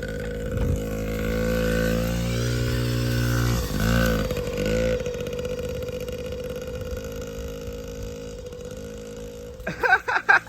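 Yamaha PW-50's small two-stroke single-cylinder engine running on a ride, with a brief change in revs about four seconds in, then fading as the bike moves away. A few short, loud bursts of another sound come near the end.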